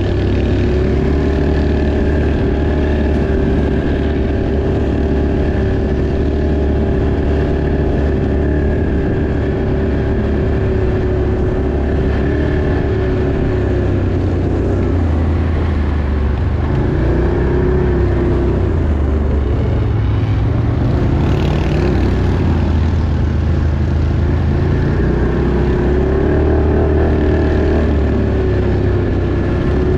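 Off-road vehicle engine running close to the microphone while riding, its pitch dropping and rising as the throttle changes.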